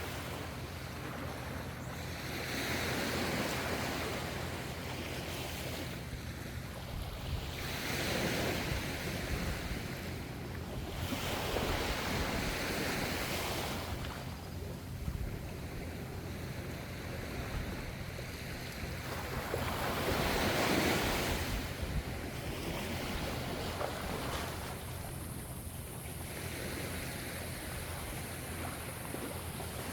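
Ocean surf: waves breaking and washing in, the wash swelling and fading every few seconds, over a steady low rumble.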